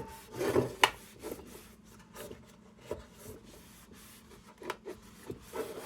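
Rag rubbing protectant over the bare metal body of a Dietz No. 2 Blizzard lantern in short, irregular wiping strokes, with a sharp knock a little under a second in.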